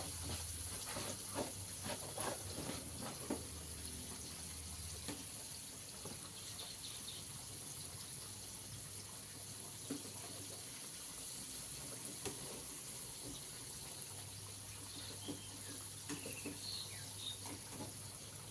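Chicken pieces deep-frying in hot oil, a steady sizzle, with a few sharp clicks in the first few seconds.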